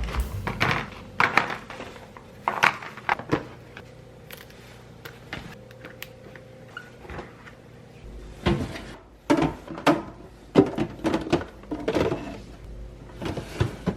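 Kitchen storage containers and their lids knocking and clicking as they are handled and set down, with a cupboard or fridge door bumping. The knocks come in two busy spells with a quieter stretch in the middle.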